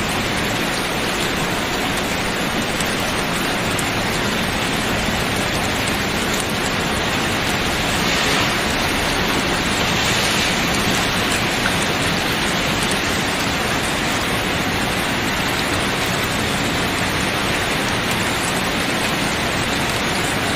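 Steady, dense rain falling on tent canvas, an even hiss that swells slightly about eight seconds in.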